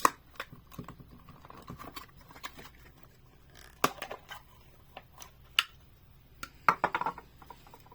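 Scattered clicks and knocks of a hard plastic display case being handled as its top is worked off, with a small cluster of clicks near the end.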